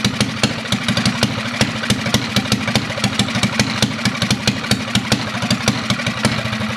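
Minibike's small engine running at a loud, uneven idle, with frequent irregular sharp pops and cracks from the exhaust. It struggles to hold an idle, which the riders put down to it not getting enough air.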